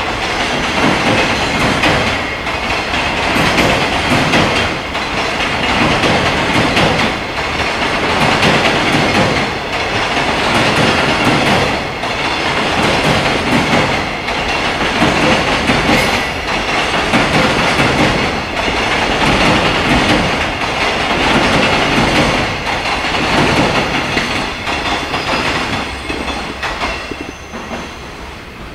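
Long freight train of container wagons rolling past at speed: a steady rumble of wheels on rail with a rhythmic clickety-clack over the rail joints. It falls away near the end as the last wagon goes by.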